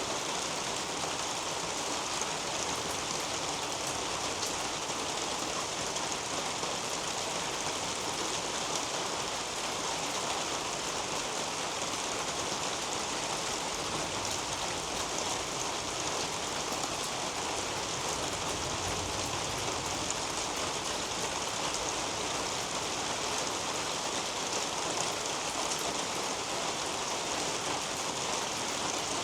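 Steady rain falling on garden leaves and a roof overhead: a dense, even hiss of countless small drops that does not change.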